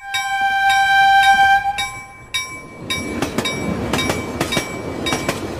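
Train horn sounding one long steady blast for almost two seconds, then the rumble of the train running past with quick, regular clicks.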